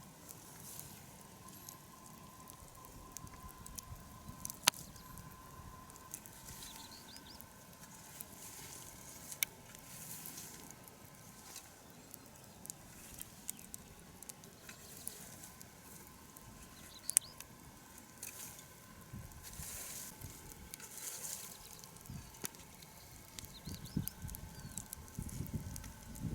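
Bonfire of cut branches and brush burning down, crackling faintly with a few sharp pops.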